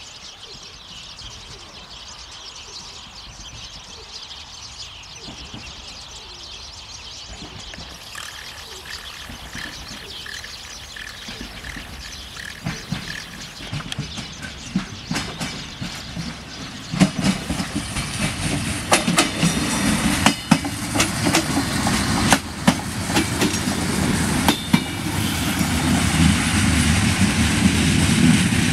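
Siemens Desiro diesel multiple unit approaching and passing close by. Its engine rumble grows steadily louder. From about halfway the wheels click sharply over rail joints and points, loudest near the end as the train goes by.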